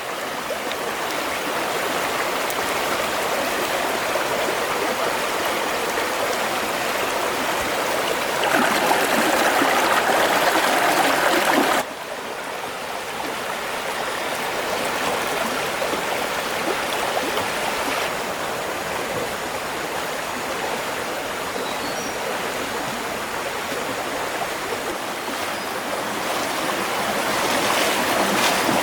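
Running stream water, a steady rush that gets louder, then drops abruptly about twelve seconds in and carries on more softly.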